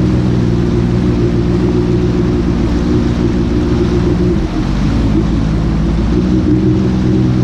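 Jet ski engine running steadily over a haze of water and wind noise, its note dipping briefly a little past the middle.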